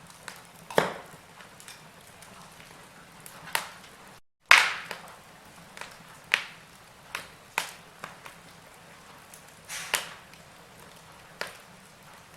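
Wood fire crackling: burning logs give off irregular sharp pops and snaps over a faint steady hiss. The sound cuts out completely for a moment about four seconds in, and the loudest pop comes right after.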